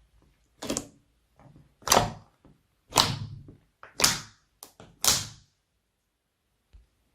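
Slime being squished and pressed by hand: about six separate short squelches and pops, roughly one a second, that stop shortly after the middle.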